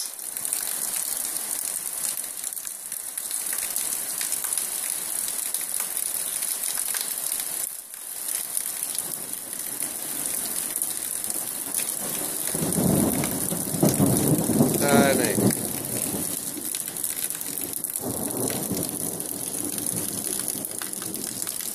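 Steady rain falling on open water and paving, an even hiss. For a few seconds past the middle a louder low rumble rises over the rain and fades again.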